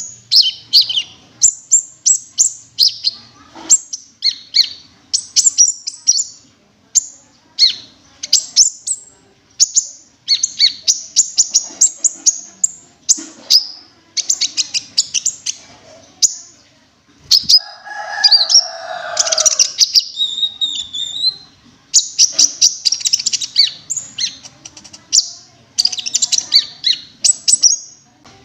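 Cinereous tit (gelatik batu) singing: quick runs of short, high, sharp chirping notes repeated in phrases with brief pauses between them, and one different, rougher call near the middle.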